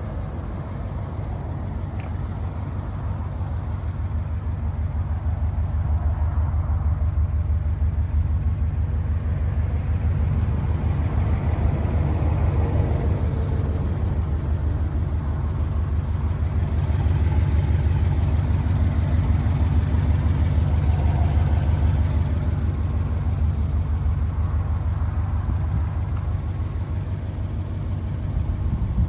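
Subaru Impreza STi's turbocharged flat-four engine, a Prodrive-built forged unit, idling steadily with a low, even pulsing note and no revving.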